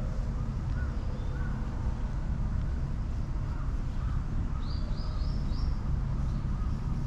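Birds calling in the park: a short arched note repeated every second or so, and a quick run of four high chirps about five seconds in, over a steady low rumble.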